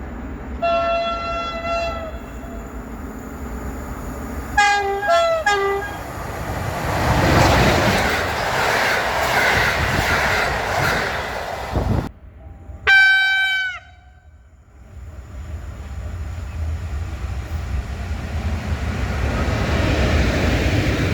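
Passing trains sounding their horns: one blast about a second in, a quick run of short blasts at two pitches around five seconds, and another blast after a break, between the rushing rumble of trains going by.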